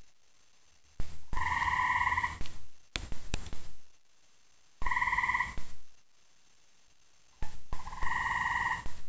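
Gray tree frog calling: three loud musical trills, each about a second long, a few seconds apart. A few sharp knocks come between the first two calls.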